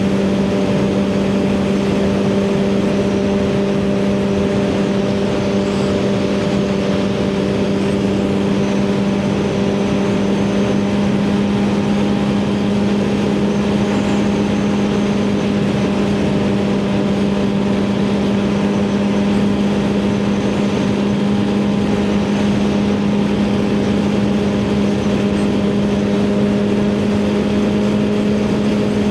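Suzuki GSX-R1000R's inline-four engine with a CS Racing full exhaust, running at a steady highway cruise, its note holding one pitch throughout. Wind rush over the microphone underneath.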